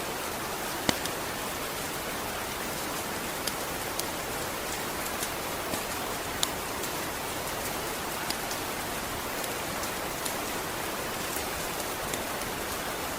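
Steady rain, an even hiss with scattered louder single drops ticking about a second in and now and then after.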